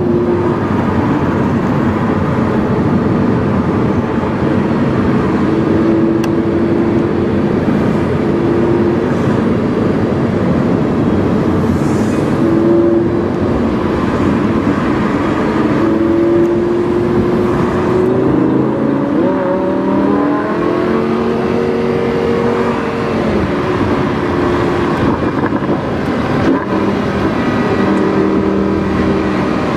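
Lamborghini Huracán's V10 engine, breathing through a PowerCraft aftermarket exhaust, running while driving. Its pitch shifts up and down throughout, and a little past halfway it climbs sharply and then steps back down.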